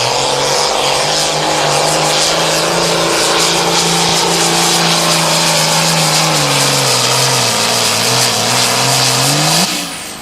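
John Deere Pro Farm pulling tractor's turbocharged diesel engine running flat out while pulling the sled. Its pitch drops about six seconds in as the engine lugs down under the load, then rises briefly before the sound cuts off sharply near the end as the run finishes.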